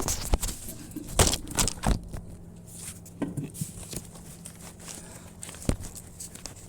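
Handling noise from a camera being set down and adjusted: a series of knocks, scrapes and rustles, with one sharper knock near the end, over a steady low hum.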